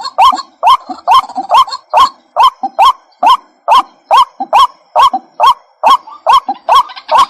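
White-breasted waterhen calling: a steady, loud run of short notes, each sweeping upward in pitch, repeated a little over twice a second.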